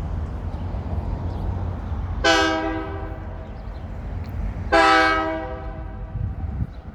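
Diesel locomotive horn sounding two blasts, about two seconds apart and each about a second long, over the steady low rumble of the arriving train.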